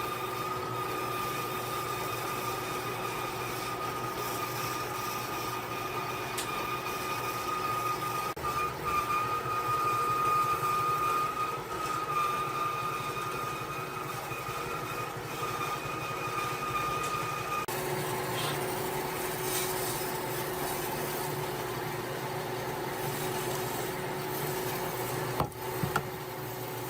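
A power tool's motor running steadily with a high whine; about two-thirds of the way through the whine drops away and a lower, steady tone carries on, with a couple of sharp knocks near the end.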